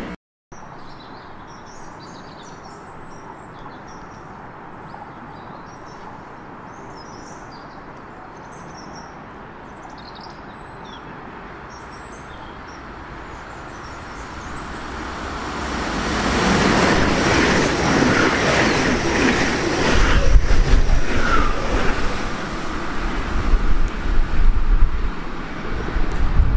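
Birds chirping over faint rail noise, then an ICE 3 high-speed electric train approaches from about halfway through, growing steadily louder, and passes close with a loud rush of air and a heavy rumble and clatter of wheels on the rails over the last several seconds.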